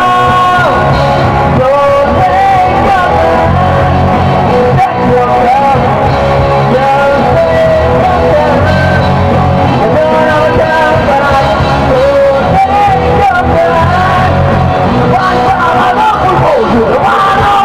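Rock band playing live, with a man singing over loud electric guitars, bass and drums.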